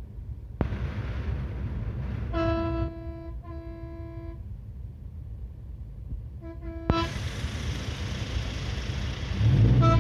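A truck horn sounding one steady note: two longer blasts a few seconds in, two short toots later, and another toot at the end, over the low rumble of passing truck engines.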